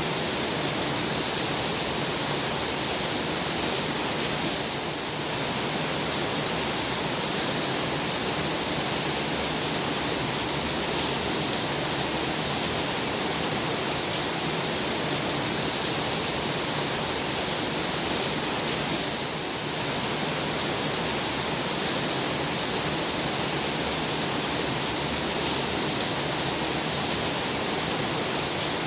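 Heavy rain pouring down in a dense, steady hiss, dipping briefly in level twice.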